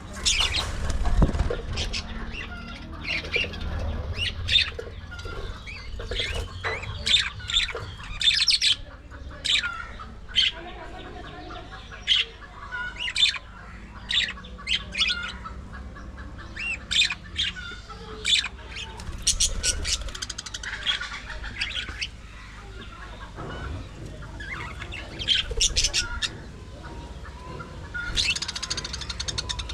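Budgerigars chirping and squawking in many short, irregular calls.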